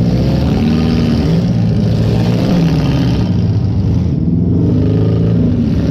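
Chevy Lumina's 2.5-litre Iron Duke four-cylinder engine revving up and down repeatedly under load, heard from inside the car's cabin.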